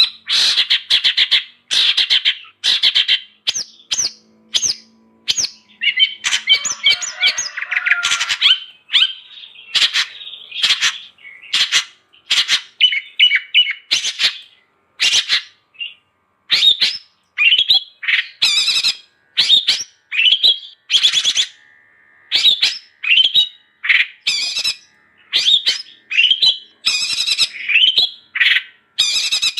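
Long-tailed shrike (cendet) calling non-stop in a rapid series of short, harsh, scratchy notes, with a denser chattering stretch about six to eight seconds in.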